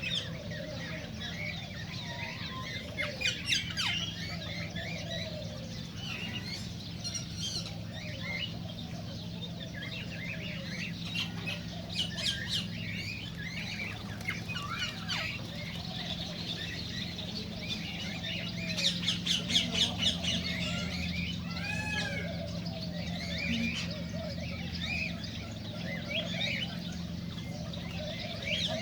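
Cockatiels calling, with a run of short chirps, whistles and harsh squawks that thickens into noisier clusters about three seconds in and again near the twenty-second mark. Softer, lower warbling calls go on underneath.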